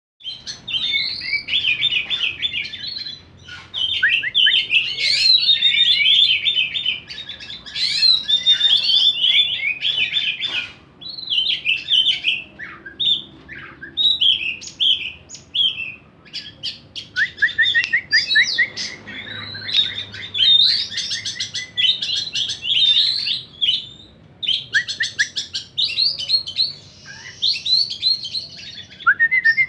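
Songbirds singing in rapid, varied bursts of high chirps and trills, with short breaks between phrases.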